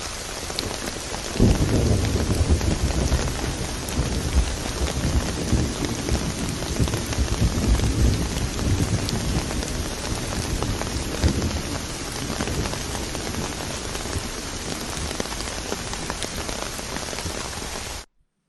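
Heavy rain falling steadily, with a roll of thunder that starts suddenly about a second and a half in and rumbles on for about ten seconds before fading into the rain. The sound cuts off abruptly near the end.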